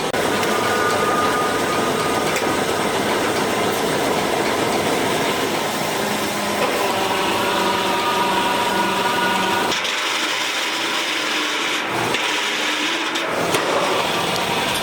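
Steady scraping and rasping of a tool working a piece in a workshop, with thin ringing tones over it that change pitch about six and a half seconds in.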